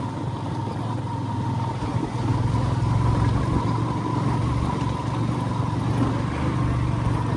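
A vehicle on the move, a steady low drone of engine and road noise with a faint steady whine above it.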